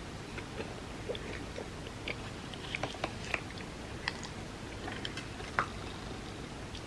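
A person eating creamy rice pudding close to the microphone: soft, wet chewing and mouth clicks come irregularly, with a sharper click near the end.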